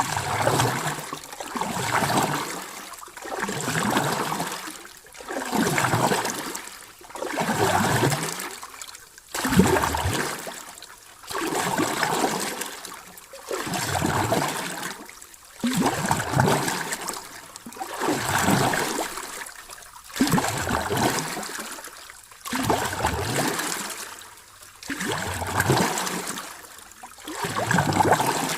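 Sea waves washing in and drawing back, a rushing surge about every two seconds in an even, regular rhythm.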